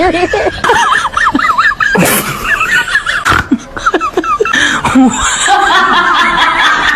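High-pitched laughter: quick, wavering giggles that run on in several bursts.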